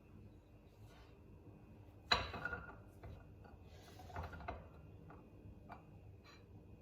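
Small objects being handled and set down: a sharp knock with a brief ring about two seconds in, a short clatter a couple of seconds later, and scattered light ticks.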